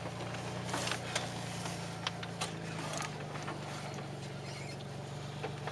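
Ford Ranger pickup truck running at low speed, its engine a steady low hum, with scattered light clicks and knocks of the truck rattling as it goes over rough ground.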